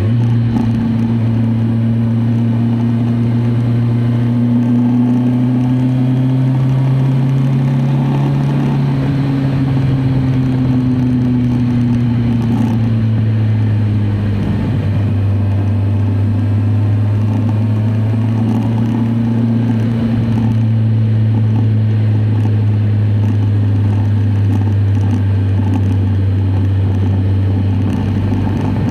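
Kawasaki Z1000SX's inline-four engine running at steady cruising revs while riding. The engine note eases up a little, drops briefly about halfway through, then holds steady at a slightly lower pitch.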